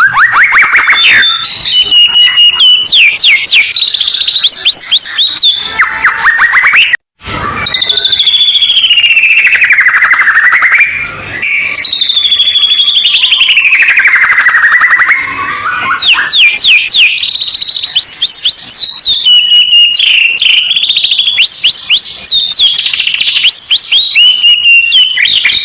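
Loud songbird song played as a training call for white-rumped shamas: fast runs of short, rapidly repeated chirps alternate with long whistles that slowly fall in pitch. The song breaks off abruptly for a moment about seven seconds in.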